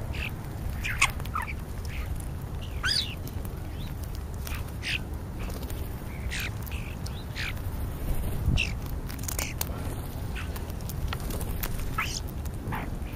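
A flock of European starlings calling: many short, irregular squeaks, chirps and whistles overlapping, over a steady low rumble.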